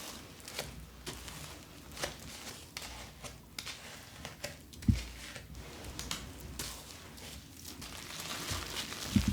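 Plastic packaging being handled: crinkling and rustling with many small clicks, a dull thump about five seconds in and another near the end.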